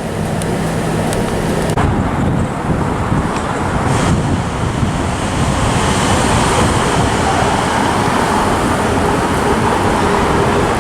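Vintage subway train running on the track: a loud, steady rumble of wheels and motors, with a low hum that cuts off about two seconds in and a higher tone building in the second half.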